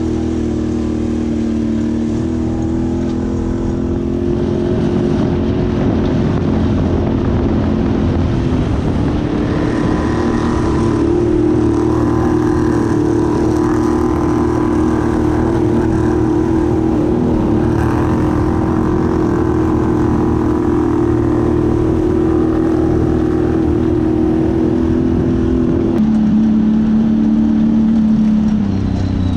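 ATV engine running steadily while riding, its pitch stepping up and down a few times with throttle changes and dropping lower near the end.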